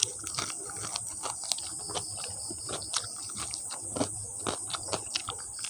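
Close-miked chewing of fried chicken feet: irregular crunches and clicks, several a second.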